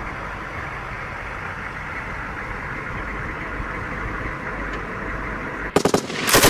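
A steady low rumble, then near the end a short burst of automatic machine-gun fire, a few rapid shots followed right after by a second, louder burst.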